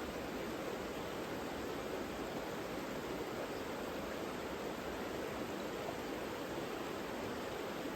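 The Savica river flowing: a steady, even rush of water.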